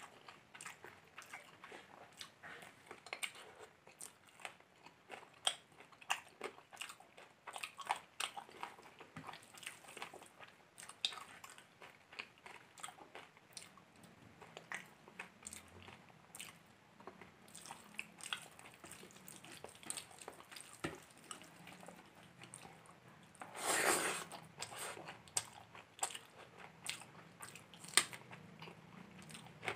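Close-miked chewing and mouth sounds of a person eating biryani and egg curry by hand: many short clicks and smacks. About four-fifths of the way through there is a louder, noisier sound lasting about a second.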